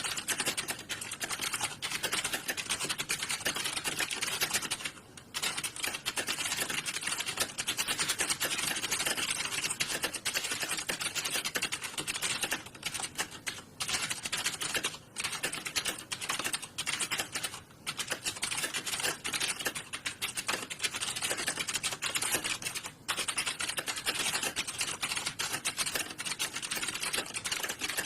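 Dense, continuous clatter of computer keyboard keys being typed fast, as in a typing-test hall. It has brief lulls about five seconds in and a few more later.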